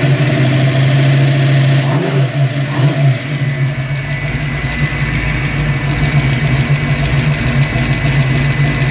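347 stroker small-block Ford V8 idling with a valvetrain tick that remains after the rocker arms have been adjusted three or four times; the owner suspects the new roller lifters not pumping up, or spark knock from 89-octane fuel in a compression ratio above 10 to 1. The throttle is briefly blipped about two seconds in.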